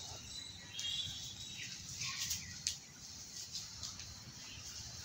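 Birds chirping: short high calls in the first second, over a low steady outdoor hum. A few sharp taps come around the middle, the loudest of them at about two and a half seconds in.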